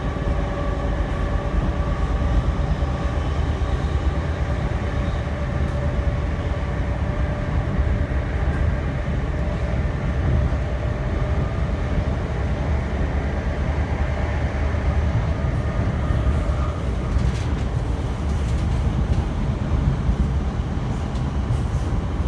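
Electric passenger train running at speed, heard from inside the carriage: a steady low rumble of wheels on track, with a faint whine that fades away over the first few seconds.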